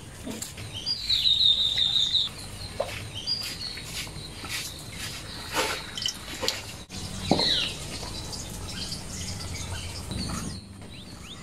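Birds calling outdoors: a quick run of high chirps, then a single falling call a few seconds later, with a few scattered knocks and taps.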